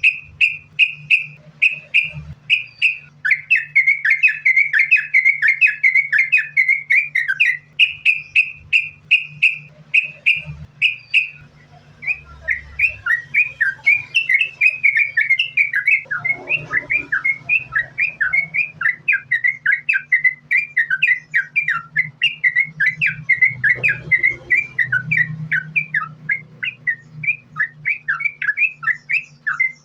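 Yellow-vented bulbul (trucukan) singing a fast, unbroken string of short chirping notes, with a brief pause about eleven seconds in. A low steady hum runs underneath.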